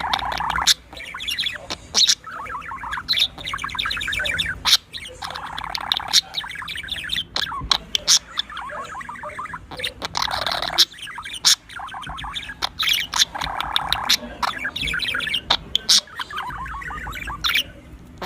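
Pet birds chattering and squawking in repeated bursts of a second or two, with sharp clicks between.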